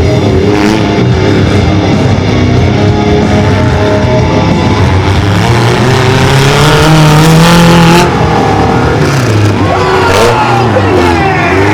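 Mini monster truck engines running and revving, the pitch climbing and falling. Rock music plays underneath.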